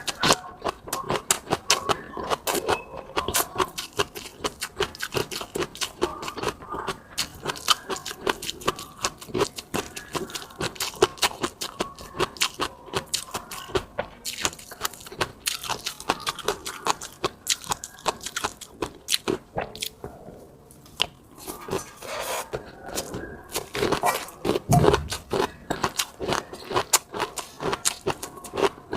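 Close-miked mouth sounds of someone eating: chewing and biting in a dense, irregular run of small sharp clicks and crunches, with a short lull a little after two-thirds of the way through.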